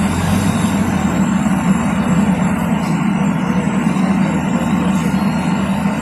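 Heavy truck's diesel engine running steadily under way, a constant low drone with no change in pace.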